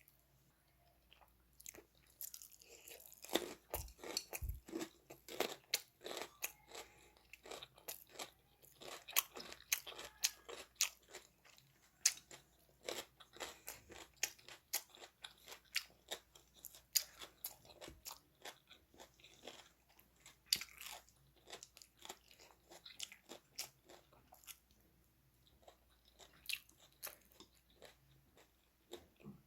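A person chewing food close to the microphone, with many quick, crisp crunching sounds that thin out near the end.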